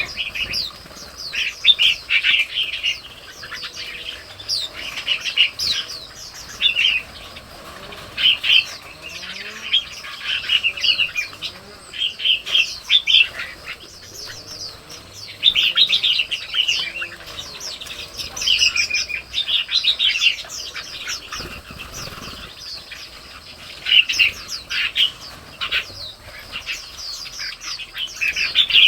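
Songbirds chirping and singing in short, bright phrases that follow one another every second or two, several birds calling over each other.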